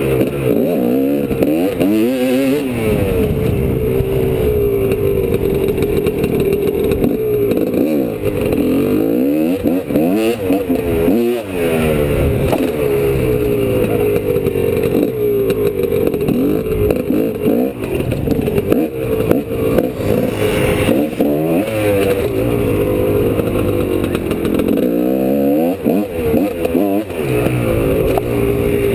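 2003 GasGas EC300 two-stroke single-cylinder dirt bike engine being ridden hard, revving up and falling back over and over as the throttle is opened and closed and gears change.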